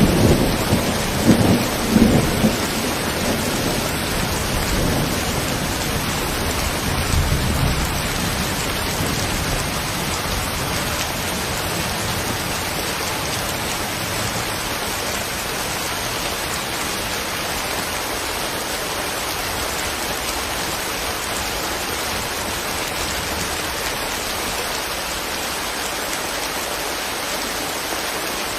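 Steady heavy rain, with a roll of thunder rumbling during the first few seconds and fading away.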